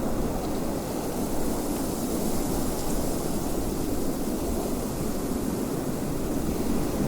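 Wind blowing steadily: a continuous deep rushing with a thin hiss on top, no gusts or breaks.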